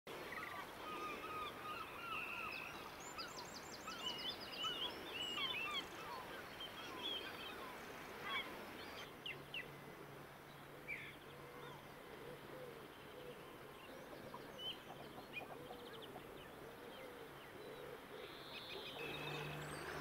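Many short bird calls and chirps over a steady background of outdoor noise, busiest in the first eight seconds and thinning out after; a low steady hum comes in about halfway through.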